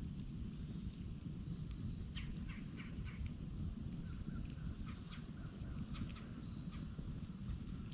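Campfire burning with a steady low rumble of flames and scattered wood crackles and pops, a quick cluster of them about two to three seconds in. Faint bird calls sound twice in the background.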